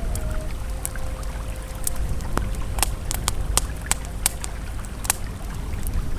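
Campfire crackling with sharp, irregular pops, over the steady rush of a flowing river.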